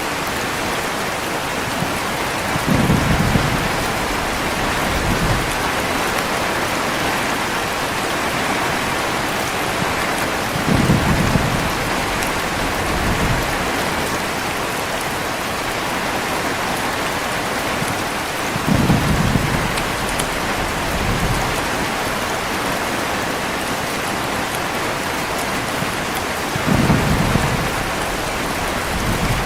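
Heavy rain falling steadily, with short low rumbles of thunder about every eight seconds, four in all, each trailed by a fainter echo of a rumble a couple of seconds later.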